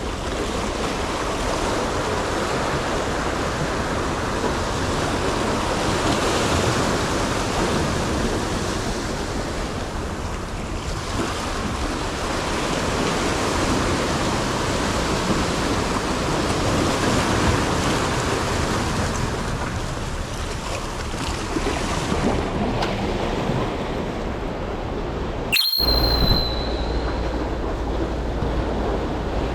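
Rough sea surf washing steadily, with wind buffeting the microphone. About 26 s in the sound drops out for a moment with a short high tone, then resumes.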